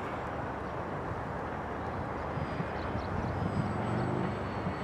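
Radio-controlled model seaplane's motor running as it comes in to land on water, with heavy wind noise on the microphone. The motor's low drone grows stronger in the second half.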